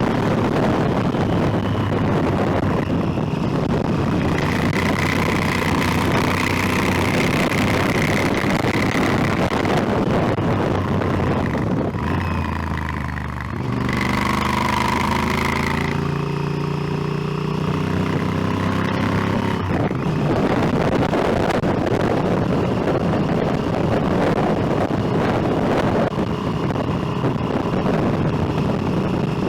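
Motorcycle engine running at road speed, with heavy wind rush on the microphone. About twelve seconds in, the engine note drops and quietens as the bike slows. It then accelerates, the engine pitch climbing for several seconds.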